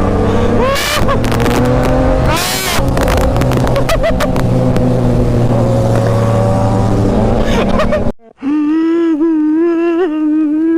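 Motorcycle engines revving hard, the pitch rising and falling with several engines overlapping, with sharp cracks mixed in. About eight seconds in the sound cuts off abruptly and a steady, wavering pitched tone takes over.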